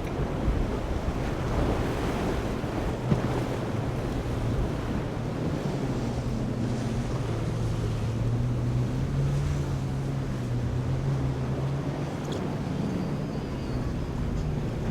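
Wind buffeting the microphone over surf at an inlet, with a boat engine droning low and steady underneath that comes through more clearly from about five seconds in.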